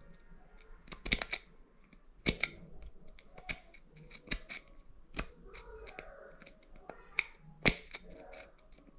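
Irregular sharp metal clicks and taps of hand tools working on a shower valve, the loudest about a second apart with smaller ticks between.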